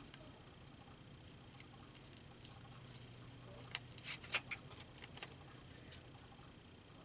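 Scissors snipping paper: scattered faint snips, then a quick run of louder, sharper snips about four seconds in.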